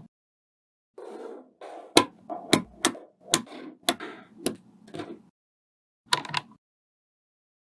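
Small magnetic balls clicking sharply as they snap together, about seven clicks over a few seconds among softer rattling and rolling, then a brief second cluster of clicks near the end.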